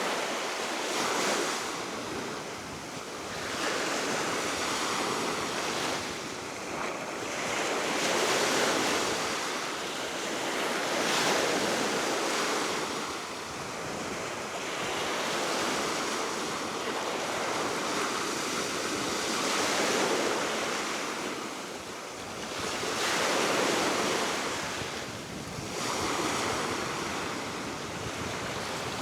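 Baltic Sea waves washing onto the shore, swelling and falling away every three to four seconds, over a steady wind.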